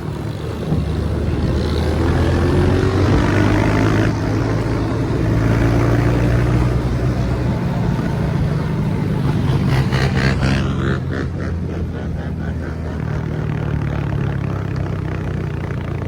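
Small dirt bike engines running steadily, with one engine's pitch rising as it revs a couple of seconds in.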